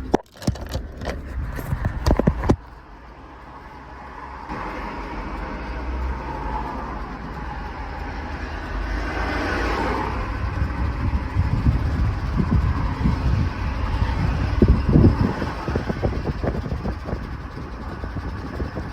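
5.3-litre V8 of a GMC Yukon XL running under way, with a hard knocking that grows louder later on: a spun or worn connecting-rod bearing (rod knock). A few loud sharp clicks sound in the first two seconds or so.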